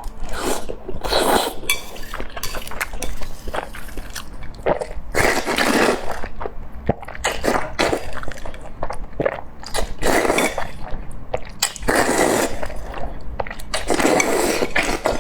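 Close-miked eating sounds: a person chewing and crunching food in irregular bursts.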